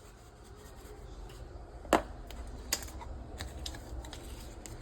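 Scattered light clicks and taps of spice containers being handled while seasoning chicken wings. A sharp click comes about two seconds in, and a smaller one follows shortly after.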